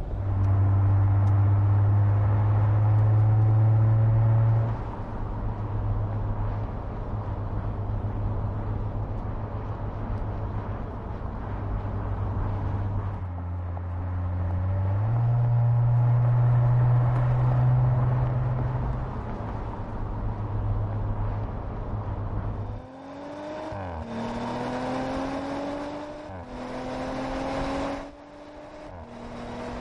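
Audi RS 5 Coupé's twin-turbo V6 engine under way with a steady low drone whose pitch rises slowly. Near the end it accelerates hard, its pitch climbing and dropping sharply at three quick upshifts.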